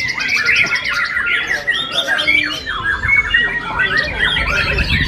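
Many caged songbirds singing over one another in a dense chorus of fast trills and short whistled phrases, as competing birds in full song. A low rumble runs under it near the end.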